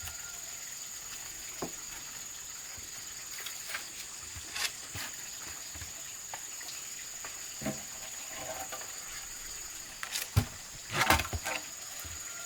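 Insects buzzing steadily at a high pitch, with scattered knocks and clicks and a louder burst of clatter near the end.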